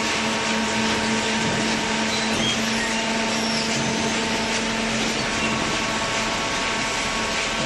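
Hydraulic baler's electric motor and pump running, a steady mechanical drone with a hum.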